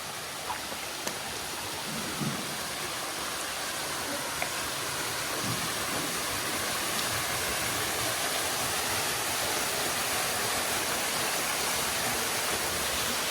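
Waterfall rushing: a steady hiss of falling water that grows gradually louder, with a few faint knocks in the first few seconds.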